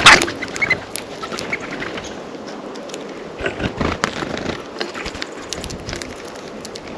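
Small birds at a feeder close to the microphone: a loud scuffle right at the start, then irregular sharp clicks and taps of pecking and seed handling, with a few faint chirps.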